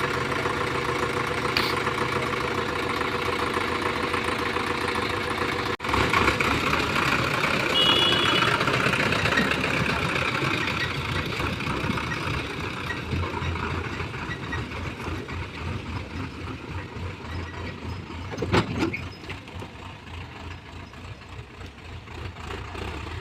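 Heavy diesel engines of an excavator and tractor running steadily. The sound breaks off briefly about six seconds in, then picks up again and slowly fades.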